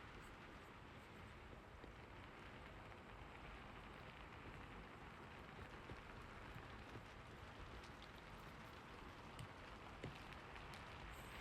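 Soft, steady rain, with a few faint single ticks like drops, the most distinct about ten seconds in.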